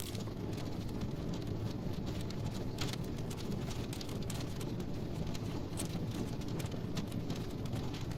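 Wood logs burning in a fireplace: a steady low rumble of flame with scattered crackles and pops, one sharper pop about three seconds in.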